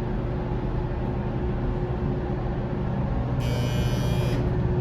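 Steady low mechanical hum of a slow-moving ship's elevator car and its machinery. About three and a half seconds in, a brief high-pitched tone sounds for about a second.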